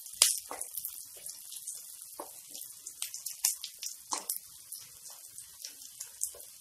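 Onions, garlic and green chillies sizzling in hot oil in a kadhai, stirred with a spatula that scrapes and taps the pan at irregular moments.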